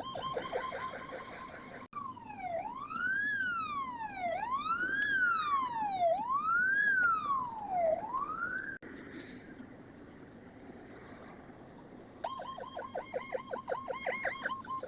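Fire truck electronic siren: a fast yelp, then, after an abrupt break, a slower wail rising and falling about every two seconds. The wail breaks off suddenly to a few seconds of traffic noise before the fast yelp returns near the end.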